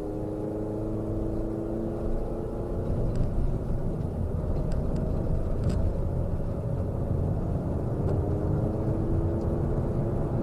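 Car engine and road rumble heard from a moving car, the engine note rising slowly as it gathers speed at the start and again about eight seconds in.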